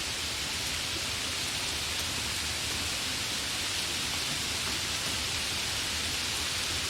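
Rain falling steadily, an even hiss with no pauses.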